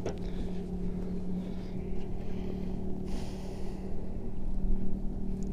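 A steady low motor hum holding one pitch, over a rough low rumble like wind on the microphone, with a brief hiss about three seconds in.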